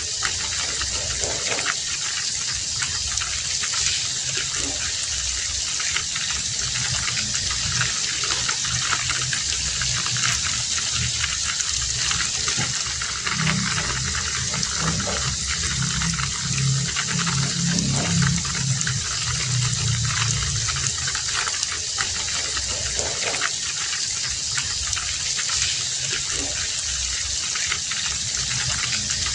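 Heavy rain falling steadily, an even hiss with a low rumble underneath that swells for several seconds in the middle.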